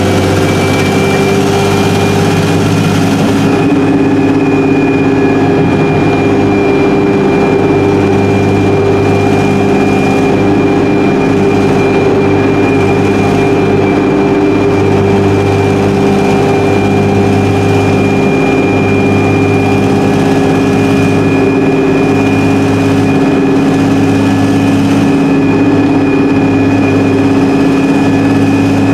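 Onboard sound of an Alexander Dennis Enviro300 single-deck bus with a Voith four-speed automatic gearbox and a blown exhaust, under way. A steady engine drone is joined by a steady high whine, and a low hum pulses on and off every second or two. A high hiss dies away after about three seconds.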